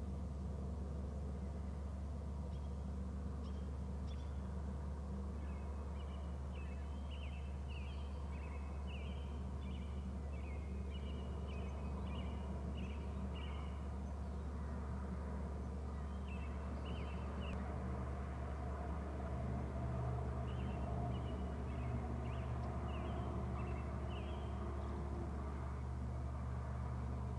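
A bird calling in runs of short chirps, over a steady low hum.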